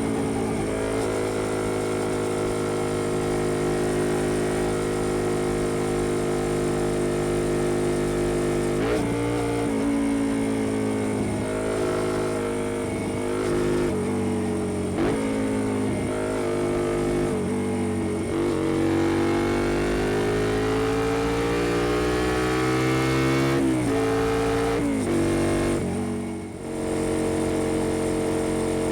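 2005 Honda XL125V Varadero's 125cc V-twin running through a BlackWidow aftermarket exhaust, ridden on the road. The engine note holds steady at first, then from about a third of the way in climbs and drops sharply again and again, like quick gear changes, before a longer slow rise. It eases off briefly near the end.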